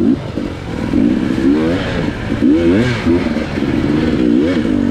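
Enduro dirt bike engine revving, its pitch rising and falling several times as the throttle is opened and closed.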